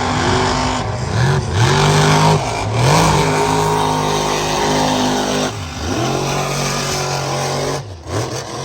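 Mega truck engine at full race throttle, revving up and down in repeated surges. The pitch drops sharply and climbs again about five and a half seconds in and near the end.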